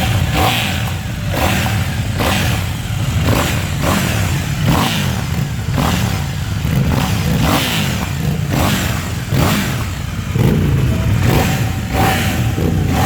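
KTM 790 Duke's parallel-twin engine running at idle, revved in short throttle blips about once a second.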